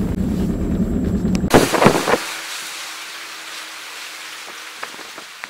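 A motor vehicle's engine running with a low, steady rumble. About a second and a half in it cuts to a steady hiss that slowly fades.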